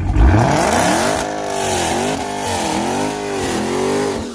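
A car engine revving hard at high rpm. Its pitch climbs sharply at the start, then rises and falls in several swells over a loud hiss, and it fades out at the end.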